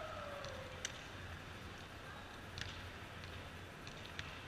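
Quiet sports-hall ambience during volleyball play. A sustained falling tone fades out in the first second, and three short sharp squeaks or clicks come about a second and a half apart.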